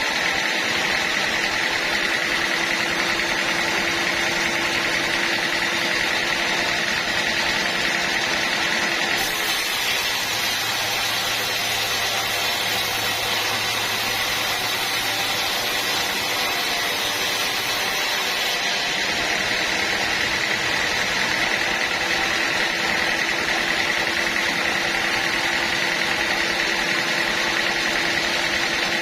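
Sawmill machinery running steadily, most likely a band sawmill working on teak logs. About a third of the way in the tone changes, growing brighter with an added low hum, and it settles back about two-thirds of the way through.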